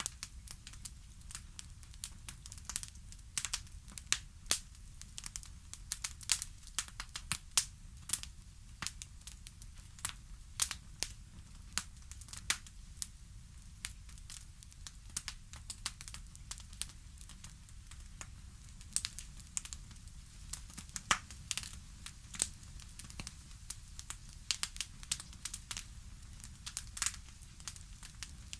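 Fireplace crackling: irregular sharp pops and snaps from burning wood over a steady low rumble of the fire.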